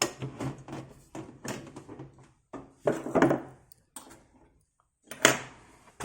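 Clunks, knocks and scrapes of a 3.5-inch floppy drive being worked into place inside the opened Amiga 500's casing. There are sharper knocks at the start, about three seconds in and a little after five seconds.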